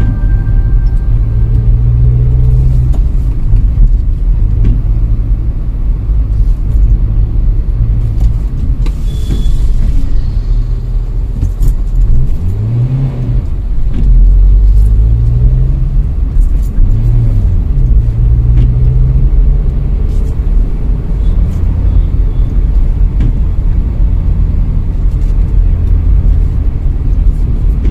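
A car driving: a steady low rumble of engine and road noise, with the engine note rising and falling a few times in the middle.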